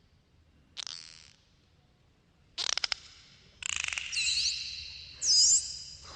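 Dolphins whistling and clicking: short bursts of rapid clicks, then looping whistles that rise and fall in pitch over the clicks, the loudest whistle a little after five seconds in.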